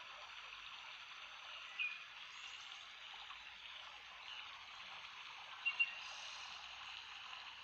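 Steady murmur of flowing water, with a few short high chirps about two seconds in and again near six seconds.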